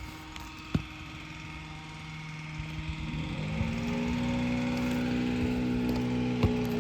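A small engine running steadily. About three seconds in its pitch rises and then holds at the higher speed. A sharp knock sounds near the start and another near the end.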